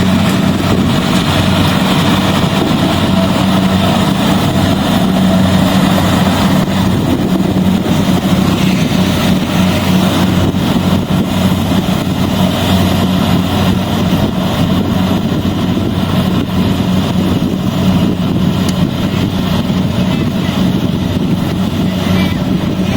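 Rice combine harvester running steadily: an even engine hum over constant machinery noise.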